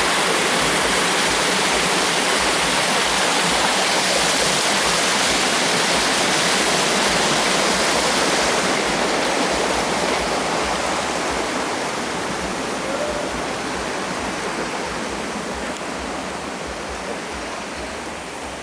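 Waterfall water pouring and splashing in a steady rush, easing off gradually over the second half.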